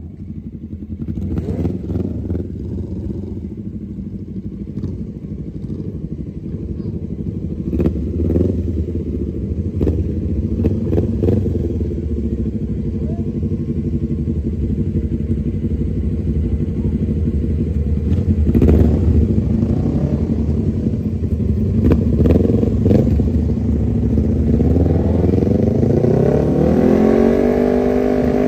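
Mini bike engine running steadily at low revs, with a few sharp knocks along the way. Near the end it revs up, its pitch rising.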